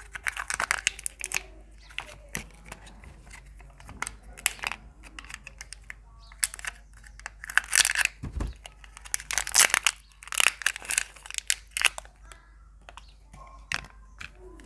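Surprise egg wrappers crinkling and tearing in irregular bursts as the eggs are unwrapped by hand, with one dull low thump a little past halfway.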